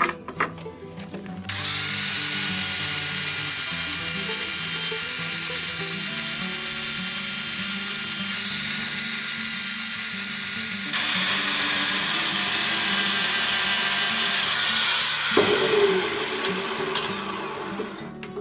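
A power tool starts abruptly about a second and a half in and runs steadily with a high hiss and a thin whine for about fourteen seconds, then winds down. Background music plays underneath.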